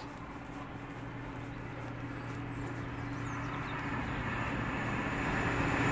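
Class 43 HST diesel power car approaching, its steady engine note and running noise growing louder throughout.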